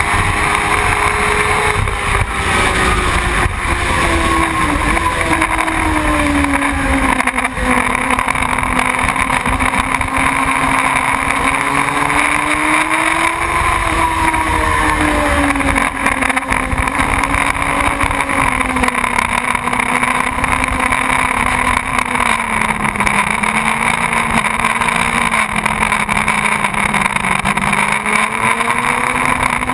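Motorcycle engine running steadily while under way, its pitch slowly falling and rising several times, over a constant rushing noise.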